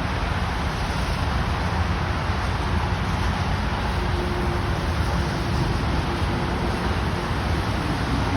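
Jet airliner's engines at takeoff power: a steady roar with a deep rumble, and a faint whine that joins about four seconds in.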